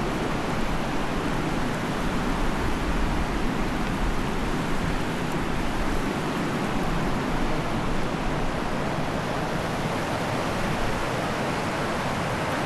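Fast-flowing mountain river rushing, a loud, steady roar of water.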